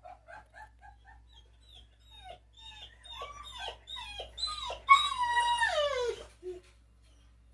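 Dog whining: a string of short, soft whimpers, then louder whines that rise and fall, building to one long, loud whine about five seconds in that slides down in pitch, ending with a short yelp.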